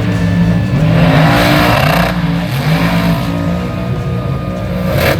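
Mega truck engines revving hard, pitch rising and falling again and again as the throttle is worked.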